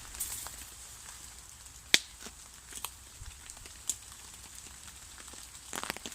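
Campfire crackling, with irregular pops and one sharp crack about two seconds in, and a quick run of pops near the end.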